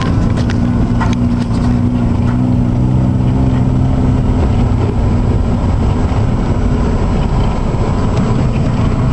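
Loud, steady rushing noise of a flooded river in spate, with a low steady hum under it that fades out about four seconds in.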